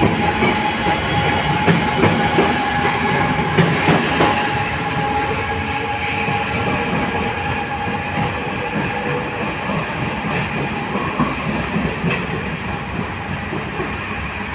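Passenger train running along the station tracks: wheels click over rail joints for the first few seconds, then a steady rolling rumble with a constant mid-pitched whine.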